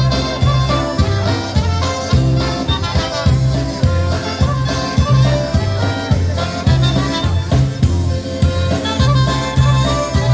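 Live polka band playing an instrumental passage of a polka, the bass notes alternating on a steady oom-pah beat under the lead instruments.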